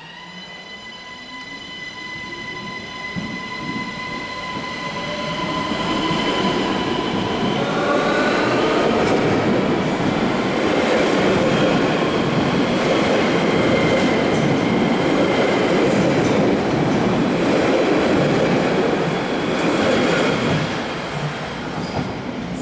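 ÖBB S-Bahn electric train running along an underground station platform and past. A steady electric whine holds for the first several seconds. Then the rumble of wheels on rail grows loud as the cars go by, with brief high wheel squeals, and eases off near the end.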